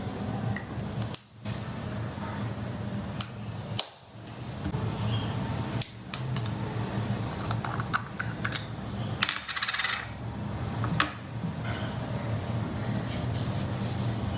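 Small hard objects being handled and set down, light clicks and clatters, with a short hissing rattle about nine and a half seconds in, over a steady low hum.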